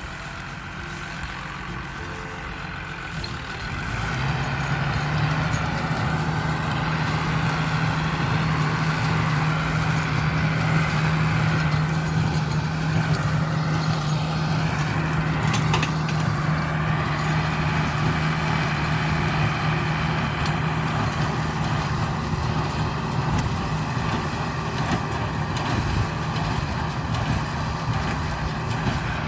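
Engine of a straw-baling machine running steadily, growing louder about four seconds in and then holding a constant low hum.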